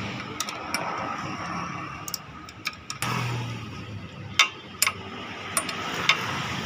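Irregular sharp clicks and taps of hand tools and metal motorcycle engine parts being handled, about nine in all, the loudest near the middle, over a steady background hum.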